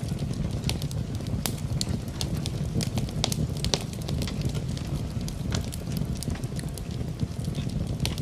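Wood fire in a fireplace crackling, with sharp pops and snaps at irregular intervals over a steady low rumble of burning, mixed with a soft hiss of rain.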